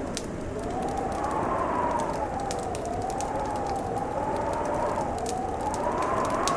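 Wood fire crackling with frequent sharp pops, over wind howling with a wavering whistle that slowly rises and falls in pitch.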